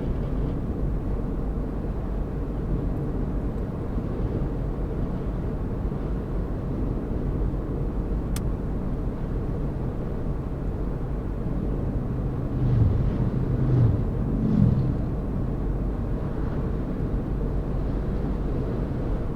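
Car driving at a steady pace, its engine and tyre noise a constant low rumble. Between about twelve and fifteen seconds in, a louder pitched engine note swells and bends. There is a single sharp click a little before the middle.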